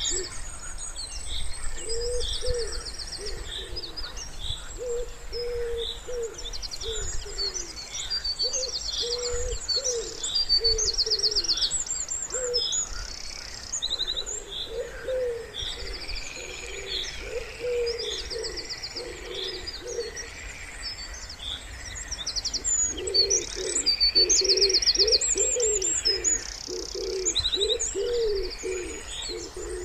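Wood pigeons cooing in repeated phrases, with short pauses between phrases. Over them, small songbirds keep up many high chirps and quick buzzy trills.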